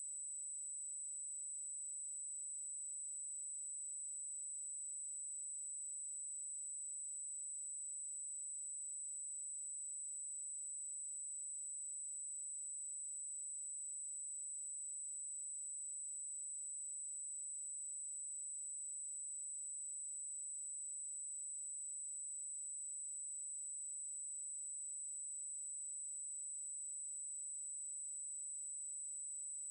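A pure 7926 Hz sine-wave test tone: one steady, very high-pitched whistle held at a constant level.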